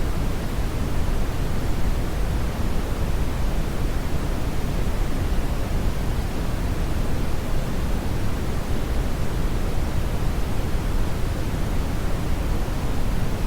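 Brown noise: a steady, strong hiss-like rumble heaviest in the deep bass and thinning toward the treble, without change or events.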